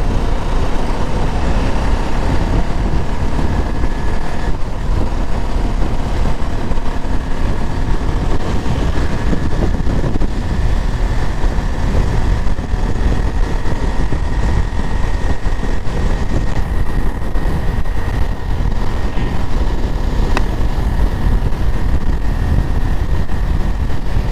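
Wind buffeting the bare built-in microphone of a GoPro HERO9 on a moving motorcycle, with no windscreen fitted: a loud, steady low rumble, with the motorcycle running faintly underneath.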